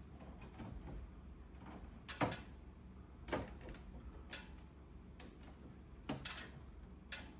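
Plastic parts of an air conditioner's indoor unit being handled during reassembly: about six sharp clicks and knocks spread over several seconds, the loudest a little over two seconds in.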